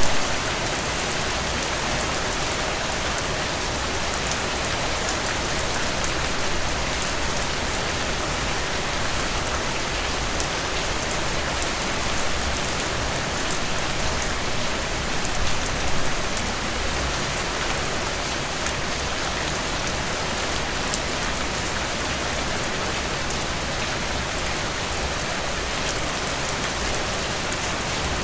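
Steady rainfall, with individual drops pattering on a surface. No thunder.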